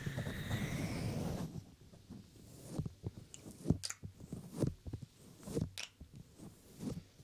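Close-up handling of a binaural microphone: dense rubbing against it for about the first second and a half, then scattered soft strokes and taps.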